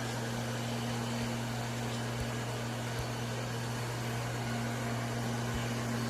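Vacuum cleaner running steadily: a constant low hum under an even rushing noise, with a few faint knocks.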